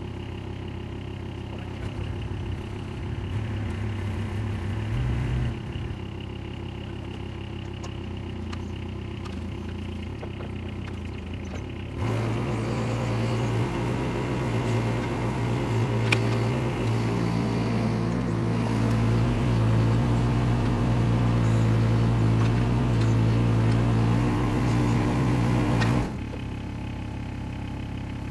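Case 420CT skid steer's diesel engine idling, then about a third of the way in it steps up to a higher, louder speed and holds there for about fourteen seconds before dropping back to idle near the end.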